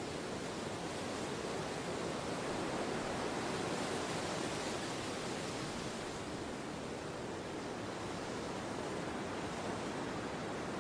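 Steady wind noise, an even rushing that swells gently and eases off.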